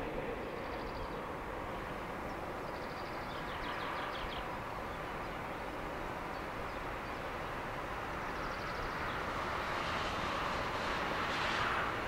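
Freight train of hopper wagons approaching behind a DB class 185 electric locomotive: a steady rumble of wheels on rail that grows louder over the last few seconds.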